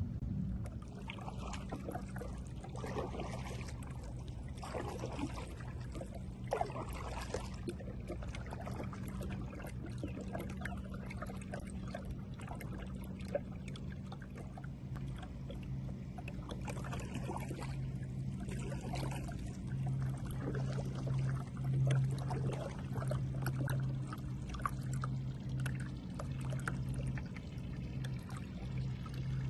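Kayak paddle dipping into calm water, with irregular splashes and drips and trickles running off the blade, over a steady low hum.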